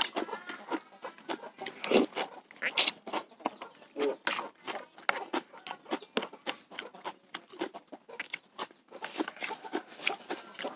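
Close-miked eating: chewing and lip-smacking over bakso and raw chillies, heard as a dense run of short wet clicks. Chickens cluck in the background.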